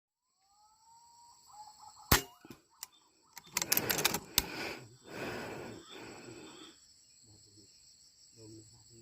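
A single sharp air rifle shot about two seconds in, followed by a softer click and a few seconds of rustling and handling noise, over a steady high-pitched buzz.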